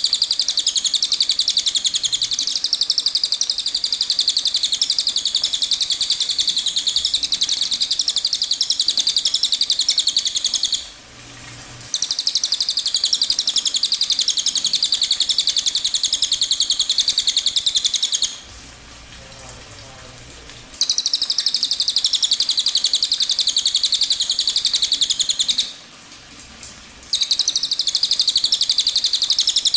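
A songbird singing long, very fast, high-pitched trills. There are four unbroken phrases of several seconds each, with short pauses of a second or two between them.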